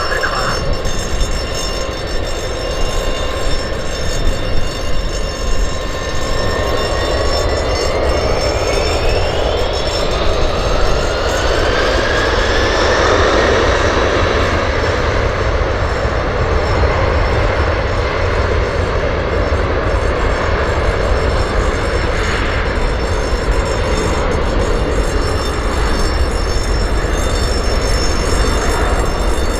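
KDC-10 Extender tanker's General Electric CF6-50 turbofan engines running loud and steady. Their whine rises in pitch from about seven to thirteen seconds in as the engines spool up.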